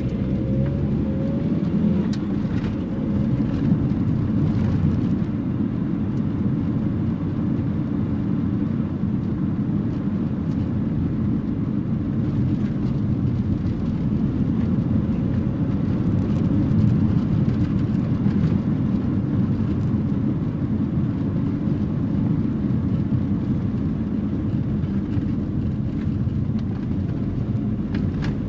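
1984 Nissan N12's E15 1.5-litre four-cylinder engine running steadily while the car is driven. Its pitch rises briefly in the first couple of seconds.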